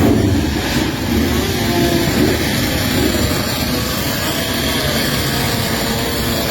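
Motorcycle engines running, their pitch rising and falling as they are revved.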